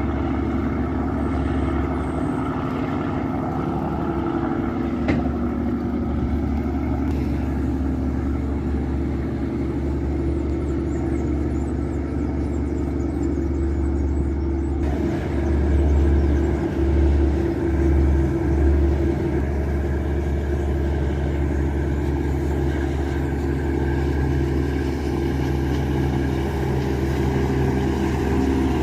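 The boat's Yanmar marine diesel engine (829 hp) running steadily under way: a continuous low drone with several steady tones. Low throbbing swells come through between about 15 and 19 seconds in.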